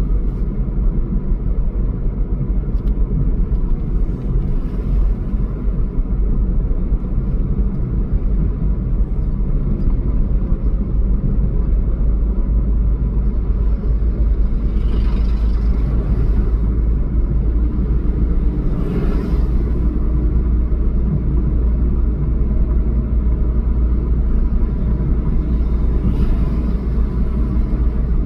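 Steady low rumble of a motor vehicle with road noise, with brief louder swells about halfway through, a little later, and again near the end.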